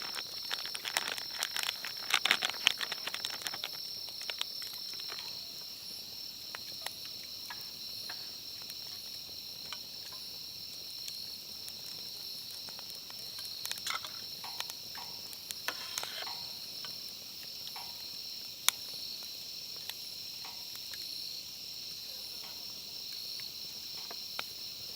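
Steady insect chorus, a continuous high chirring at two close pitches. Over it come sharp clicks and crackles, busy for the first few seconds, then scattered, with a few louder ones.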